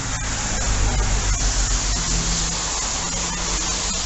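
Steady rushing hiss with a faint low engine hum beneath it.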